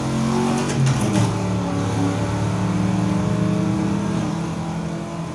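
Race car engines running at high revs in a film soundtrack, played back through a 5.1 surround speaker system in the room; the engine pitch holds steady with small shifts.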